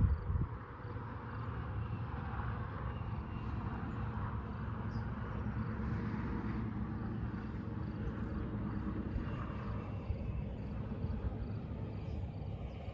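Outdoor ambience with a distant engine rumble that swells over the first several seconds and fades after about ten seconds, over a steady low rumble; a brief knock right at the start.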